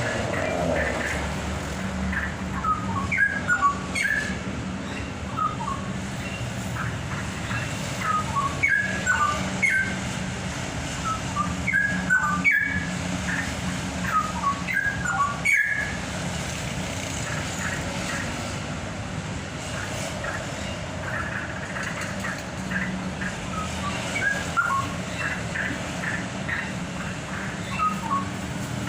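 Caged songbird singing clusters of short whistled notes that slide up and down in pitch, a burst every few seconds, over a steady low hum.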